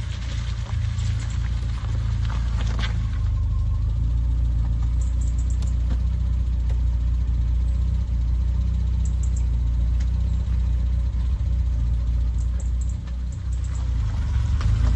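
Triumph Spitfire four-cylinder engine running steadily at a low, even speed.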